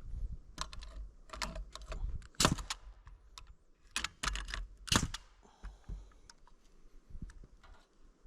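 Irregular sharp clicks and knocks, with two louder knocks about two and a half and five seconds in.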